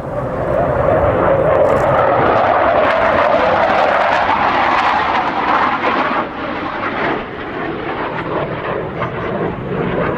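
Twin General Electric F404 turbofans of an RCAF CF-18 Hornet making a pass: a loud jet roar that swells to its loudest in the middle, then falls off about six seconds in.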